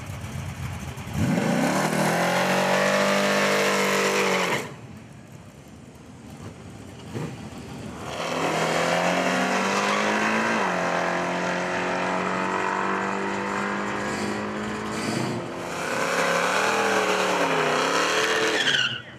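A car engine revved hard in three spells. About a second in it climbs quickly and holds high until it cuts off. From about eight seconds it holds steady at high revs for several seconds. Near the end it wavers up and down, then stops suddenly.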